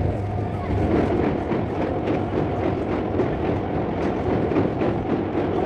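MEMU electric multiple-unit train running at speed, heard from an open coach door: a steady clatter of wheels on the rails with rapid clicks. It grows louder about a second in as the train crosses a steel truss bridge.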